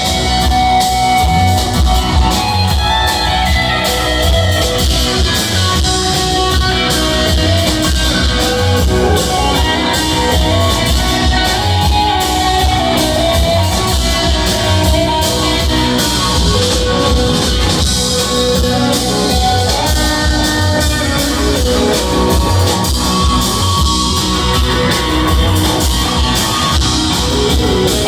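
Rock band playing live: a long instrumental guitar jam over a steady drum kit beat.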